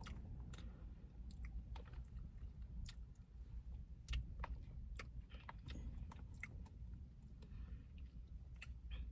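A person chewing and eating ice cream, with many small sharp mouth clicks and smacks scattered throughout.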